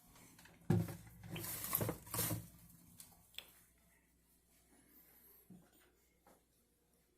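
Household handling noise: a couple of seconds of rustling and knocking, then a single sharp click.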